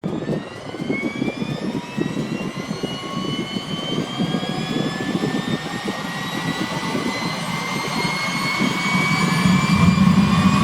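Bell 212's PT6T-3 Twin-Pac turboshaft engine spooling up during engine start: a whine that rises steadily in pitch and grows louder, over a rough low rumble.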